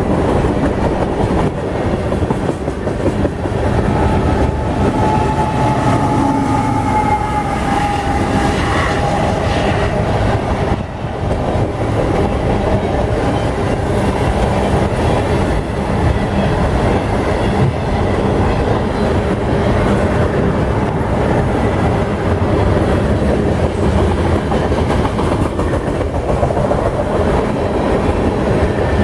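Freight train cars rolling past close by: a steady rumble and clatter of steel wheels over the rail joints, with faint high wheel squeal for a few seconds in the first third.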